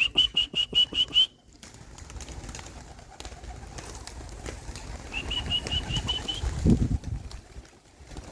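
A trilling whistle of about seven quick warbles at one high pitch, given again more faintly about five seconds later: the recall signal that calls racing pigeons back in.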